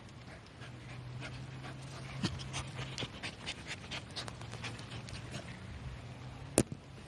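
Shiba Inu panting while digging at the dirt with its paws: a quick run of short scratching strokes, with one sharp click near the end.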